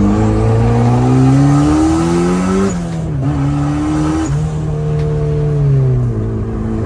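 Turbocharged Mazda Miata engine pulling under acceleration. Its note rises, drops about three seconds in, then rises again and eases off near the end. The exhaust leak from its torn-out flex pipe just after the downpipe gives the engine note a coarse, tractor-like sound.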